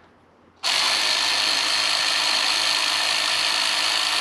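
Power impact wrench run continuously for about four seconds, starting suddenly about half a second in, with a steady high whine over its noise.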